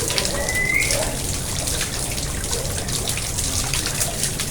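Garden pond water splashing and trickling steadily, with many small drips and splashes. A short rising whistle sounds about half a second in.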